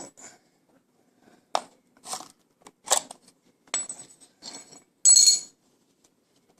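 A small hammer tapping a nail into a wooden birdhouse, about six irregular metal-on-metal strikes, some with a brief high ring. The loudest, about five seconds in, is a longer clattering strike.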